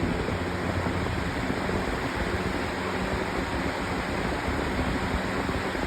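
Utilitech 20-inch plastic box fan running on high speed: a steady, loud rush of moving air with a low motor hum, blowing at the microphone.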